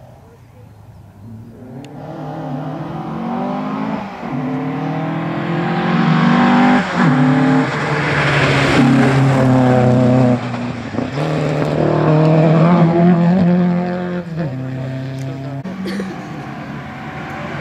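Rally car engine accelerating hard through the gears, its pitch climbing and then dropping back at each upshift, four times, as the car comes closer.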